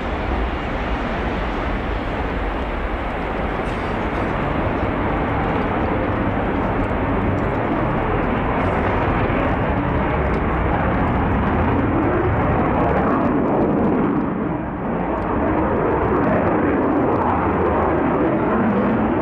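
Aircraft engine noise from a flypast: a continuous, fairly loud drone with a slowly wavering pitch that briefly dips about fourteen seconds in.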